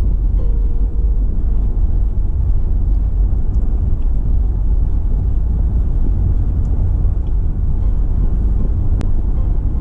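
A car driving on the road: a steady, loud low rumble of tyre and engine noise.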